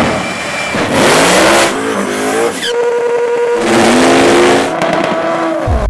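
Turbocharged Toyota Supra 2JZ inline-six accelerating hard at full throttle, its pitch climbing and dropping back at each of several gear changes.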